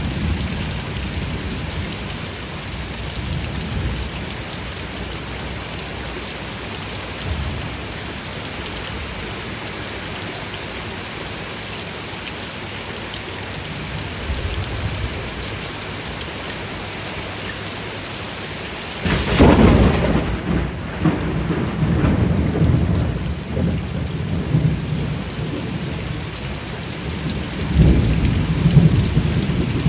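Steady rain falling, then a sudden thunderclap about two-thirds of the way through that rolls on as a rumble for several seconds, with another swell of thunder near the end.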